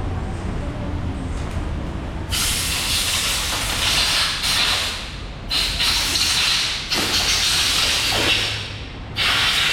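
Compressed-air blow gun hissing in four long blasts with short breaks between, starting a couple of seconds in, blowing dirt off the scooter's parts.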